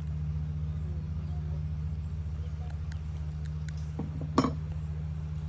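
Steady low hum of honeybees around an open hive, with one sharp knock or clink about four seconds in, likely a frame or hive tool striking the hive.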